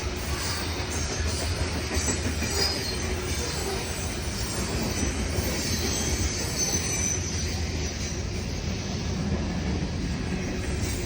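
A freight train's cars rolling past on the rails: a steady low rumble of wheels on track, with faint high-pitched wheel squeal now and then.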